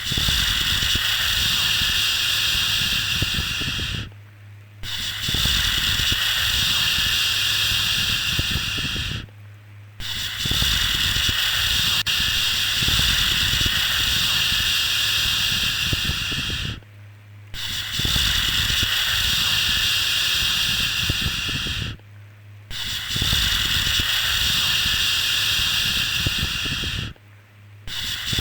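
A long 'shhh' shushing sound for lulling a baby to sleep, repeated over and over with a brief pause of under a second between each shush, every 5 to 7 seconds.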